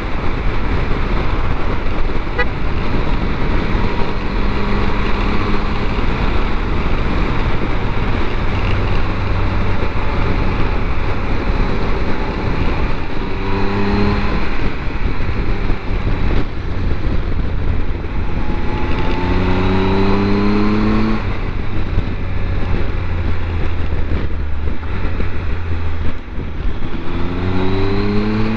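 Triumph Tiger 1200 three-cylinder engine pulling the motorcycle along over steady wind and road rush, rising in pitch three times as the bike accelerates, about halfway through, around two-thirds of the way and near the end.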